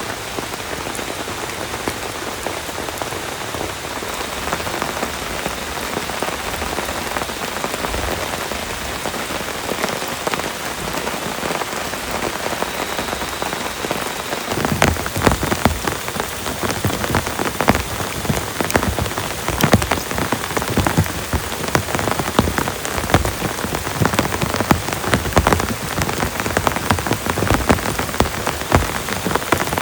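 Heavy rain falling steadily. About halfway through, big drops begin striking a nearby surface close up, adding loud, irregular taps over the hiss.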